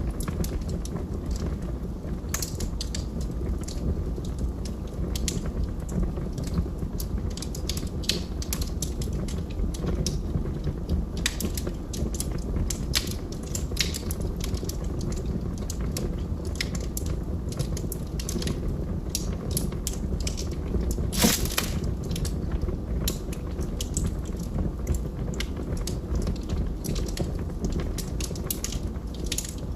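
Log fire in a fireplace crackling: irregular snaps and pops of burning wood over a low, steady rumble of flames, with one louder pop about two-thirds of the way through.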